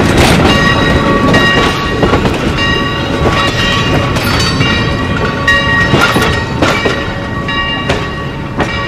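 Railroad passenger cars rolling past close by, wheels clicking over the rail joints over a heavy rumble, with high-pitched squealing tones that come and go. The sound eases off near the end as the last coach moves away.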